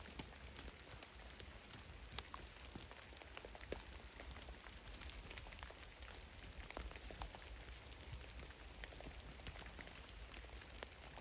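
Meltwater drops falling from snow-laden trees, pattering irregularly onto snow and branches: many scattered faint ticks, a few louder, over a soft steady hiss.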